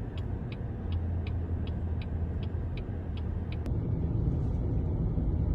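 Steady low rumble with faint regular ticking, about two or three ticks a second. The ticking stops abruptly a little over halfway, where the sound changes.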